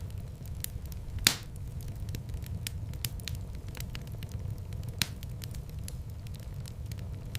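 Wood fire burning in a fireplace: a steady low rumble of flames with scattered crackles, and two louder sharp pops, one just over a second in and one about five seconds in.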